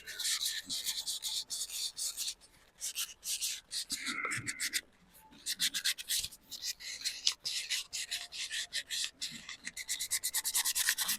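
Rubbing on the hard shell of a dried, carved gourd in quick back-and-forth strokes with short pauses: the outside being cleaned up by hand.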